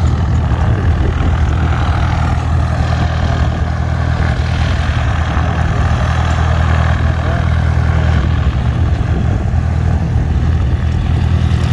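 A light propeller airplane's piston engine idling: a steady, even low hum that doesn't change in pitch.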